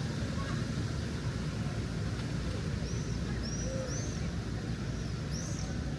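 Steady low rumble of city traffic, with a few short, high chirps from birds in the second half.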